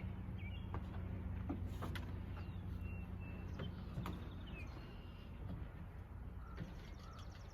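Faint low engine hum that fades away about halfway through, with scattered short bird chirps and a few light clicks.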